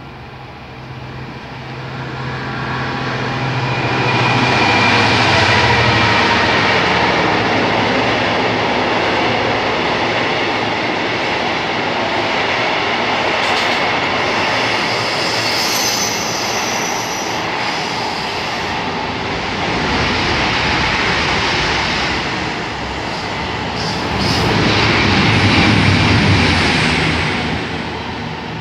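Freight train passing through at speed. The rumble builds over the first few seconds as it approaches, then runs into a long steady rush and clatter of wagons, with a brief high wheel squeal about halfway. It swells again near the end and then starts to fade.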